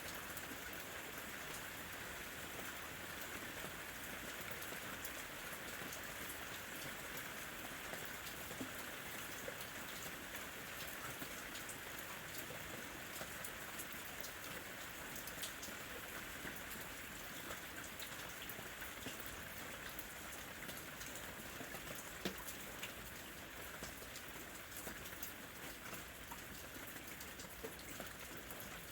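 Steady rain falling, a continuous hiss dotted with the ticks of individual drops.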